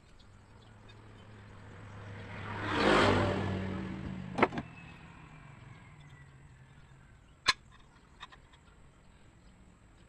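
A motor vehicle passing by, swelling over a couple of seconds and fading away, followed by a few sharp clicks.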